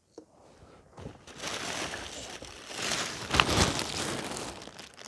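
Rustling and crinkling of things being handled and rummaged through, building up and loudest with a sharp knock about three and a half seconds in.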